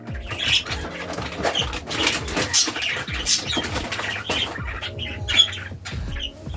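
Pet budgerigars chattering and chirping, with short fluttering and rustling noises throughout.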